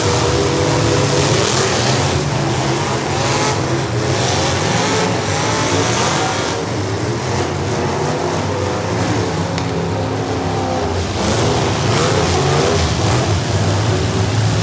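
Several demolition derby cars' V8 engines running and revving at once, their pitches rising and falling.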